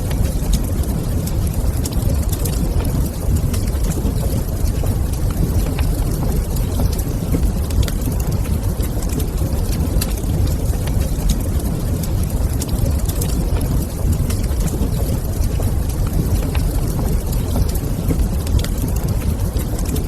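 Wood fire crackling in a fireplace: scattered small sharp pops and snaps over a steady low rumble.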